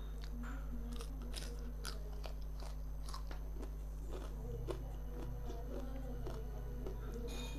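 Close-up mouth sounds of fried fish being bitten and chewed, with short crisp crunches coming at irregular moments. A steady low hum runs underneath.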